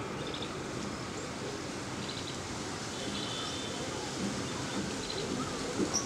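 Outdoor ambience with a steady background hiss, over which a small bird gives short high chirps in quick runs of three or four notes, a few times.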